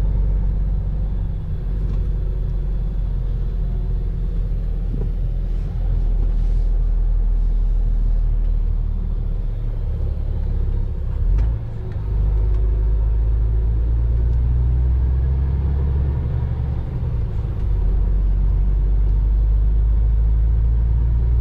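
MAN TGX truck driving, its engine and road noise making a loud, steady low rumble that steps in pitch a few times, with a brief drop in level about twelve seconds in.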